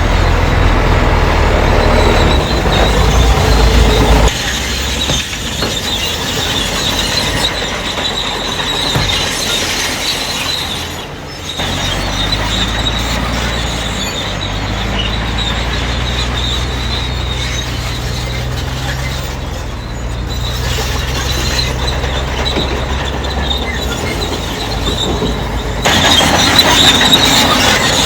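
Crawler bulldozer working, its steel tracks squealing over a steady diesel engine drone; the sound changes abruptly a few times.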